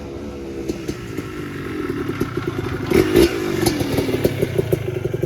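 Yamaha Blaster's two-stroke single-cylinder engine running through its new FMF exhaust. The pitch eases down, there is a sharp clatter about three seconds in, and then the engine settles into slow, even pulses of about five a second.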